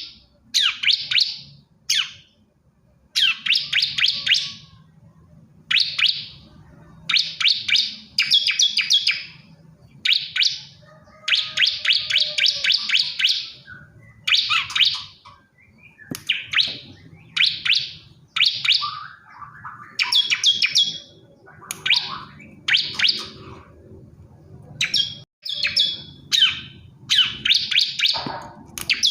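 A male bar-winged prinia (ciblek kristal) singing in short bursts of rapid, sharp high chirps, one burst roughly every second or so with brief pauses between, calling for a female.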